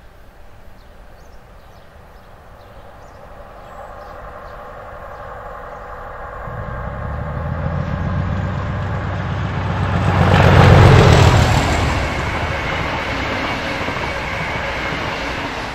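A train approaching and passing: a rumble that grows louder, joined by a low engine drone about six seconds in. It is loudest around eleven seconds in and stays loud to the end.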